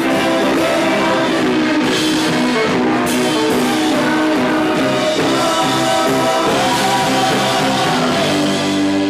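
Live rock band playing loud: electric guitars and drum kit, with singing, recorded on a camcorder's built-in microphone.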